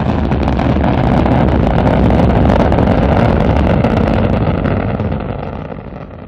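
Rocket engine noise at launch: a loud, heavy rumble with crackle, fading away over the last second or so.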